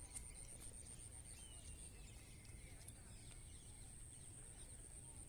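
Near silence: faint background with a few faint high chirps and ticks.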